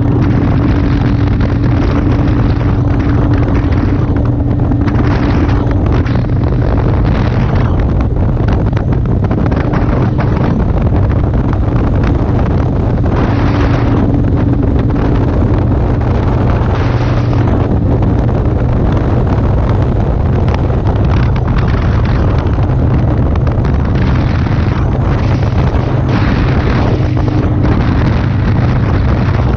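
Motorcycle engine's steady drone at cruising speed, buried under heavy wind buffeting on the microphone.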